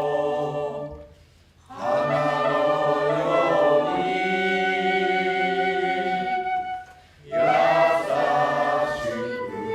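A group of voices singing long held notes, unaccompanied, breaking off twice briefly between phrases.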